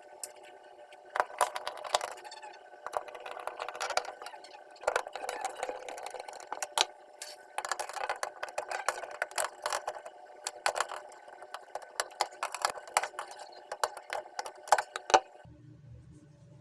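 Irregular clicking, clinking and rattling of small hard parts being handled, with sharp knocks every fraction of a second to a second, the loudest near the end.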